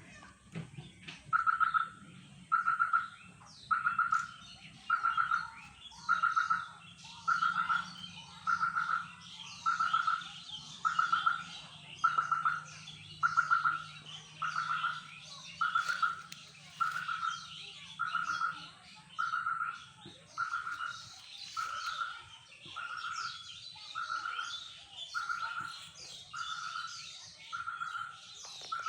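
Birds calling: one clear, steady-pitched note repeated about once a second, louder in the first half, over a busy background of many small birds chirping.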